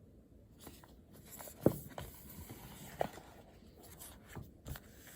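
Handling noise: a run of soft knocks and rustles, the two loudest a little under two seconds and about three seconds in.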